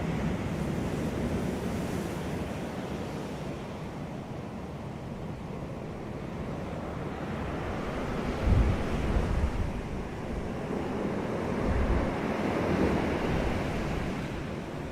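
Ocean surf washing onto a beach in a continuous rising and falling hiss. Heavier, deeper surges come about halfway through and again a few seconds later.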